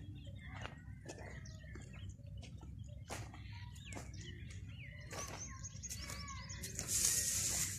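Small birds chirping and calling in quick, scattered notes over a low, steady rumble. Near the end a burst of hissing noise becomes the loudest sound.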